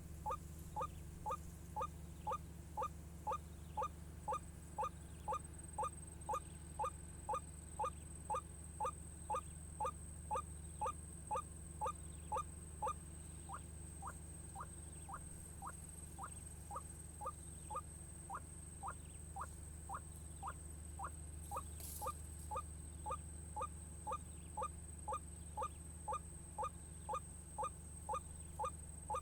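White-breasted waterhen's ruak-ruak call: a short, clipped note repeated very evenly about twice a second, weaker for a few seconds midway, then strong again. Underneath run a steady low hum and a thin high whine.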